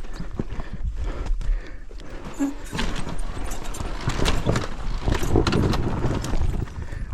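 Dirt bike working over loose rocks: irregular knocks and clatter over a steady low rumble, busiest in the second half.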